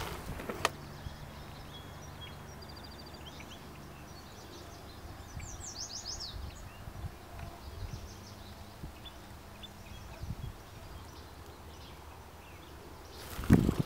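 Quiet outdoor ambience with a few small birds calling: a short rapid trill about three seconds in and a quick run of high, falling chirps near the middle, over a faint steady background.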